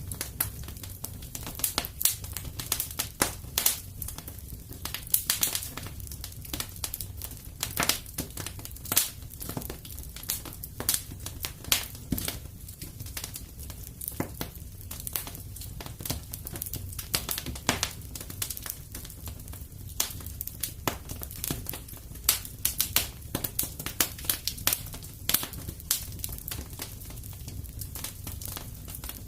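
Fire burning in a fireplace, crackling with irregular sharp pops and snaps, several a second, over a steady low rumble of the flames.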